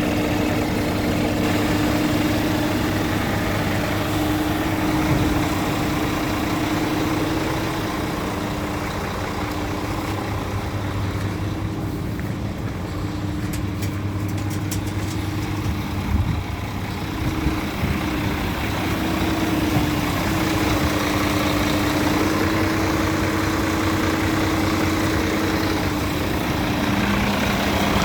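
Scania P410 dump truck's six-cylinder diesel engine idling steadily, with a few light knocks about halfway through.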